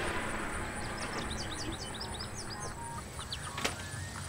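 A songbird singing a quick run of short, high chirps in the first half, over a steady low hum, with one sharp click about three and a half seconds in.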